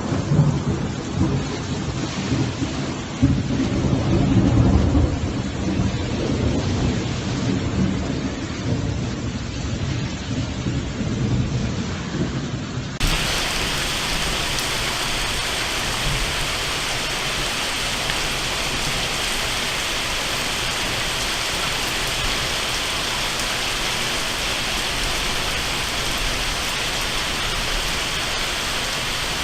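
Thunder rumbling over heavy rain. About halfway through, the sound cuts abruptly to a steady, even downpour with no thunder.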